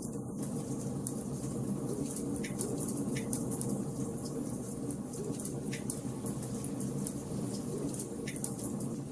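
Wood fire burning in a fireplace: a steady low rush of burning logs with frequent small crackles and pops, a few sharper snaps scattered through.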